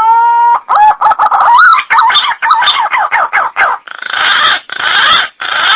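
Green pigeon (punai) calling: one long rising whistle, then a quick run of wavering, bending notes, ending in three harsh, rough notes.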